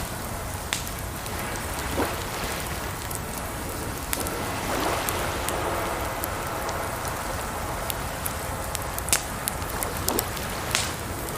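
Campfire crackling, with a few sharp pops, the strongest about nine seconds in, over a steady rushing of water.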